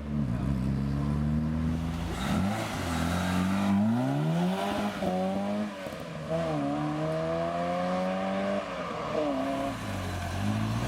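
Car engine accelerating away under throttle, its pitch climbing, dropping briefly at a gear change about five seconds in, climbing again, then falling off near the end as the driver lifts.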